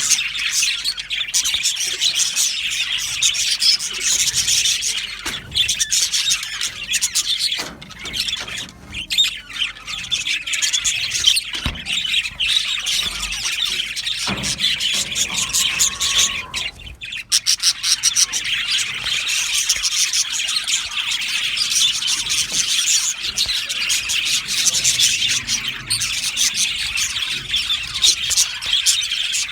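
A flock of budgerigars chattering: dense, continuous chirping and warbling from many birds at once.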